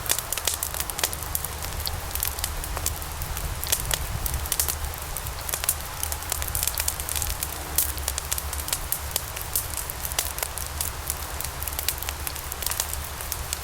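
Log fire burning in a fireplace, crackling with frequent sharp pops over a steady low rumble and hiss.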